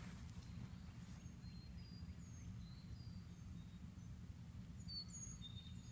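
Faint songbirds chirping now and then in short high notes, over a low steady rumble.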